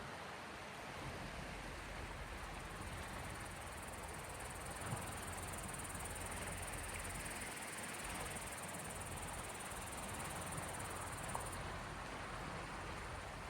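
Gentle waves washing on the shore of the Gulf of Finland as a steady, even rush of water, with a few small ticks. A thin high buzz comes in about four seconds in and stops abruptly near the end.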